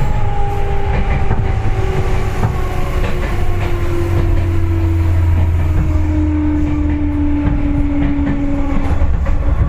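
Seibu 4000 series commuter train heard from inside the car, slowing as it approaches a station: the traction motor and gear whine falls steadily in pitch over a steady low rumble, with clicks from the wheels over the rail.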